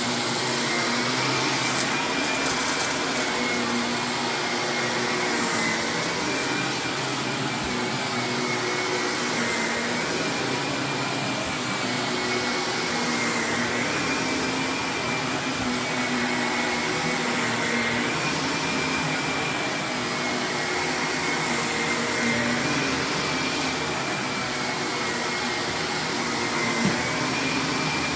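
Vacuum cleaner running steadily on carpet, its high whine dipping slightly and coming back every few seconds, with a couple of faint clicks.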